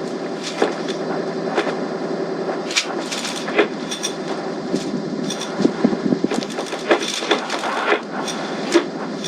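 Sailboat under way: a steady hum with many irregular knocks and clicks over it.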